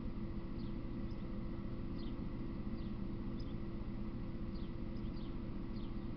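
Small birds giving short, high, falling chirps, about one or two a second, over a steady low hum.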